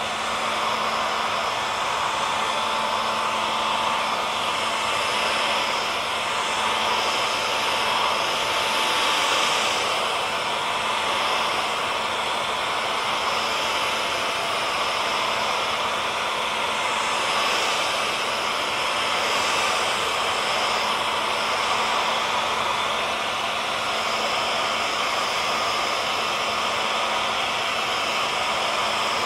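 Hair dryer running continuously: a steady, even rush of air with a faint motor hum in it.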